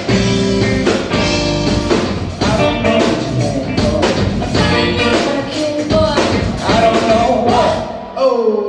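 Live rock band playing loudly with drums, bass and guitars; the low end of the band drops out about a second before the end, leaving only a few sliding notes as the song closes.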